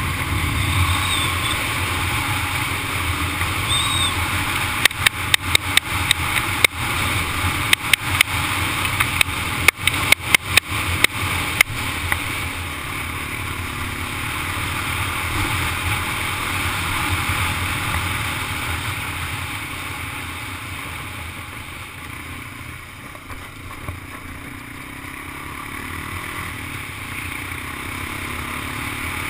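Honda ATV engine running under way, with a steady rumble and rushing noise. A rapid run of sharp clicks and knocks comes from about five to twelve seconds in, and the engine eases off somewhat later on.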